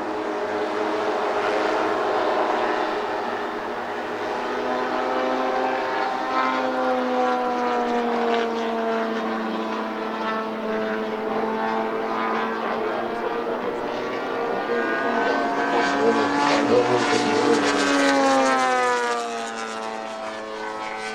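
Multiple Zenoah 38 two-stroke petrol engines of two large radio-controlled Avro Lancaster models flying in formation: a steady multi-engine propeller drone with several tones beating against each other. The pitch drifts as the aircraft pass, swelling and then falling sharply near the end as they go by.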